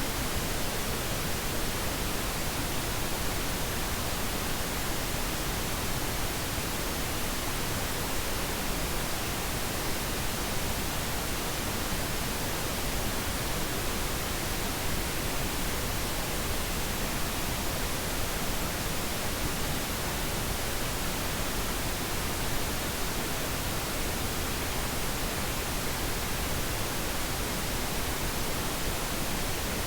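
Steady pink noise: an even, unchanging hiss across all pitches, used as a sleep aid.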